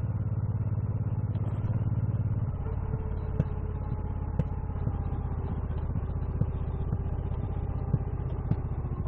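Motorcycle engine running steadily while riding, a little louder for the first couple of seconds, with a few short sharp clicks scattered through.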